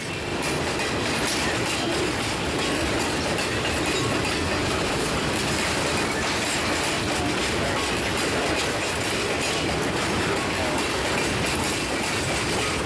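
Freight train cars rolling past on the rails, a steady wheel-and-rail clatter that comes in suddenly at the start and holds at an even level.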